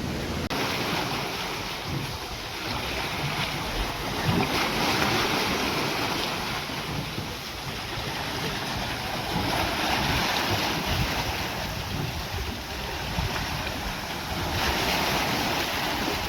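Steam beam pumping engine running: a steady rushing hiss that swells and eases about every five seconds, in time with its slow strokes.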